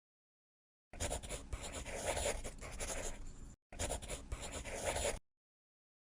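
Scratching of drawing strokes on paper, in two stretches with a brief break about three and a half seconds in.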